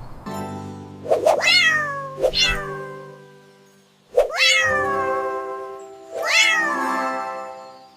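A cat meowing four times, each meow rising briefly and then falling in pitch, over soft sustained background music.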